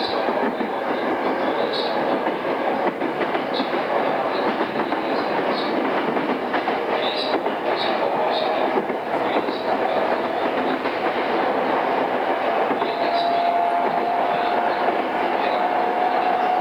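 Interior running sound of a JR East E217-series motor car, heard from a cassette-tape recording: steady wheel and rail noise with light clicks over rail joints. A traction-motor whine climbs slowly in pitch as the train gathers speed.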